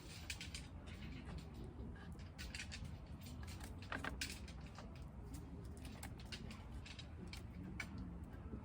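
Scattered light ticks and taps at an irregular pace over a steady low rumble, with a slightly stronger tap about four seconds in.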